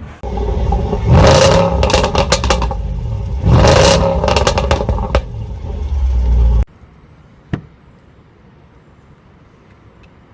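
Range Rover Sport SVR's supercharged 5.0-litre V8 revved hard twice, each rise in revs followed by a string of exhaust pops and crackles as the revs drop. The engine sound cuts off suddenly after about six and a half seconds, leaving only a faint background and a single click.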